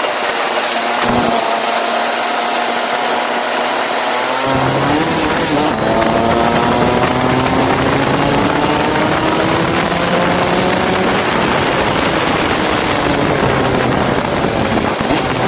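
Go-kart engine running under load, its pitch rising steadily from about five seconds in as the kart accelerates, over a loud rushing hiss of wind and wet-track noise.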